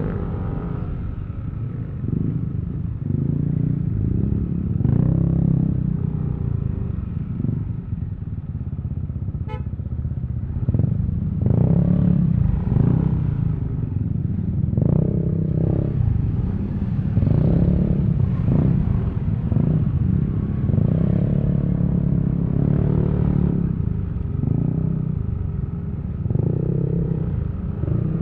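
Yamaha Aerox V3 scooter's single-cylinder engine running under way, its note rising and falling as the throttle opens and closes, with a brief click about halfway through.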